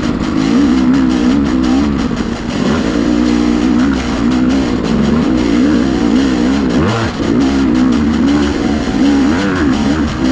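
Dirt bike engine revving up and down again and again as the throttle is opened and closed while riding off-road.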